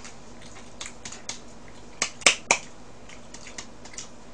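Wet clicks and smacks of a mouth chewing raw mullet sashimi close to the microphone. A few soft ones come first, then three louder ones in quick succession about two seconds in.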